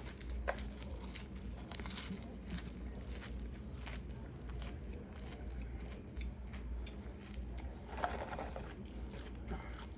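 Close-up chewing of raw baby arugula leaves, a mouth crunching and biting through the greens in many short irregular sounds, with a low steady hum under it.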